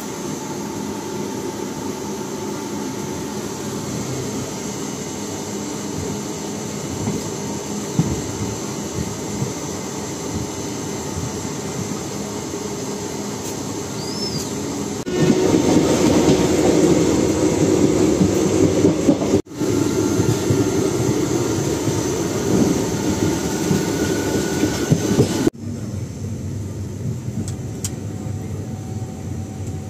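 Passenger train running on the rails, a steady rolling rumble of the coaches. It grows louder about halfway through and changes abruptly twice.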